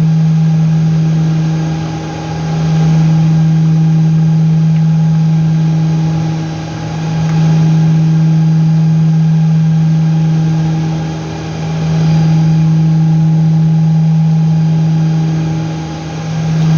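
Steady electrical hum, loud and low-pitched with a fainter higher tone above it, dipping briefly in level about every four and a half seconds.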